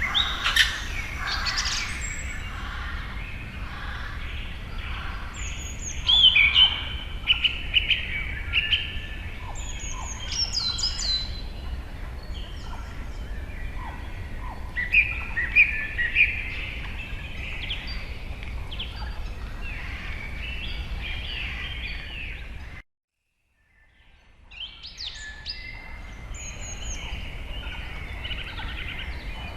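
Several birds chirping and calling in a dense chorus over a low steady background rumble. About 23 s in, the sound cuts out completely for about a second, then fades back in.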